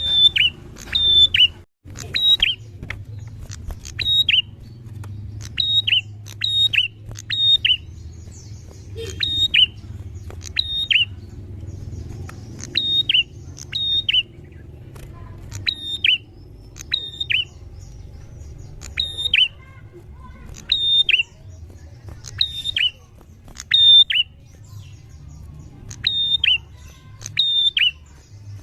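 Prinia (prenjak) calling loudly and persistently: sharp down-slurred notes repeated in quick groups of two to four, with short gaps between groups, over a low steady hum.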